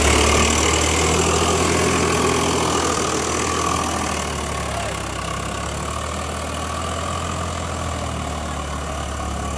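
Tractor engine running steadily with a low hum, a little louder for the first four seconds and then easing slightly.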